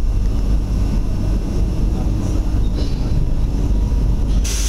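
Passenger train running, heard from inside the carriage: a steady low rumble of wheels on the track. A higher hiss joins near the end as the train runs close past a concrete wall.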